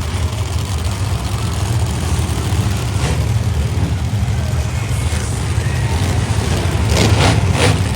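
Monster truck engines running with a steady low rumble, with a few short louder bursts about seven seconds in.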